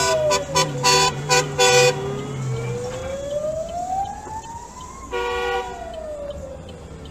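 Emergency vehicle siren in a slow wail, rising and falling in pitch over several seconds. A horn honks in a quick series of short blasts during the first two seconds and once more, longer, about five seconds in, over a low engine rumble.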